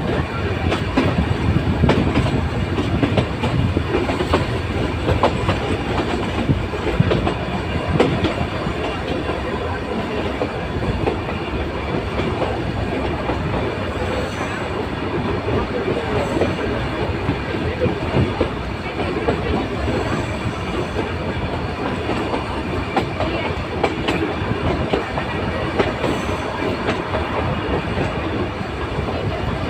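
Nilgiri Mountain Railway train running steadily on its metre-gauge track, with a continuous rumble and wheels clicking over the rail joints. It is a little louder in the first several seconds.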